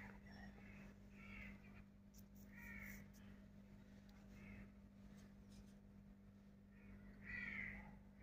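Faint bird calls: a handful of short, separate calls spaced out over a few seconds, the loudest near the end, over a low steady hum.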